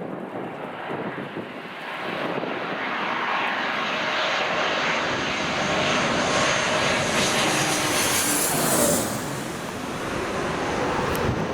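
Airliner engines passing, the noise building over several seconds to a peak with a high whine near the end, then easing slightly.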